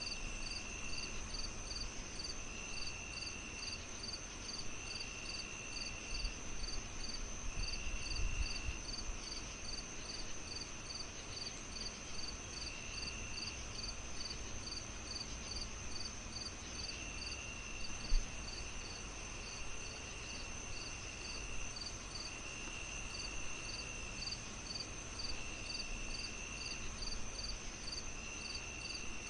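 Crickets chirping, several at once: one in even pulses about three a second, another in short trills about a second long with gaps between them, over a steady high insect trill. Beneath them is a low background rumble, with a single thump about 18 seconds in.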